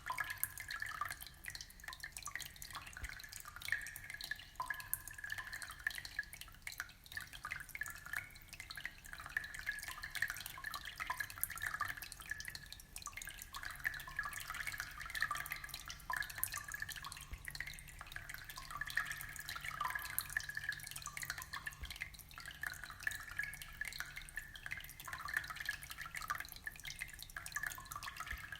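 Aquarium water trickling and bubbling: a steady, dense patter of small drips, splashes and bubble pops at the water surface.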